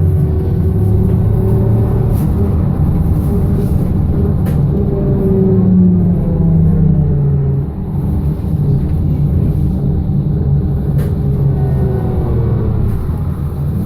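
BKM-221 trolleybus running along the road. Its electric traction drive whines, rising and falling in pitch as it speeds up and slows, over a low running rumble.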